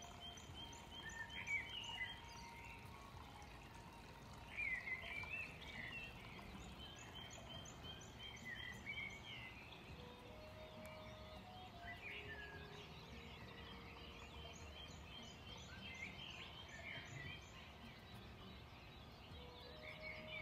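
Faint birdsong: several bouts of quick repeated high notes with chirps in between, over a quiet outdoor background.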